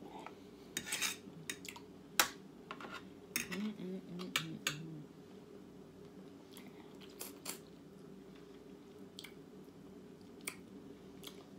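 Fork and knife clicking and scraping against a plate while eating, with a dozen or so sharp clinks in the first five seconds, the loudest just after two seconds, and a few more scattered later. A short low hum of a voice comes about four seconds in, over a steady low background hum.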